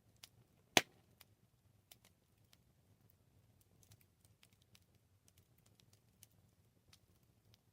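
Campfire crackling: scattered small snaps and ticks from burning wood over a low steady rumble of the fire, with one loud sharp pop about a second in.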